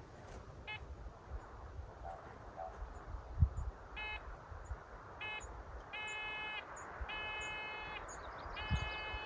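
Handheld metal detector beeping: a steady buzzing tone that sounds in short beeps and then in longer ones, a signal that it is passing over metal in the ground. A thump about a third of the way in and faint bird chirps are also heard.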